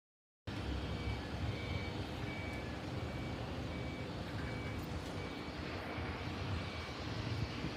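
Airport ramp background: a steady low rumble with a vehicle's reversing beeper sounding a short high beep nearly twice a second, cutting in abruptly about half a second in.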